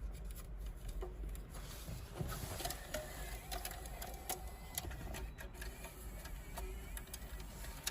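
Faint, irregular clicking and rattling of plastic parts and wiring-harness connectors being handled.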